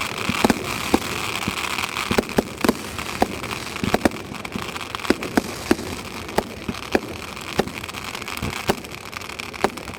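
Fireworks going off: many sharp cracks and pops at irregular intervals over a continuous crackling hiss, which fades toward the end.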